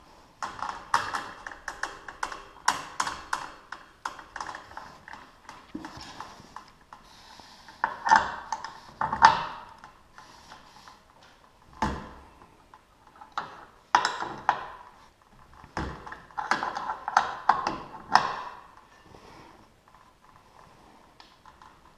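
Hand tools working the chain-tensioning bolt of a garage door opener's loose drive chain: irregular runs of quick metallic clicks and clinks, with a few louder knocks.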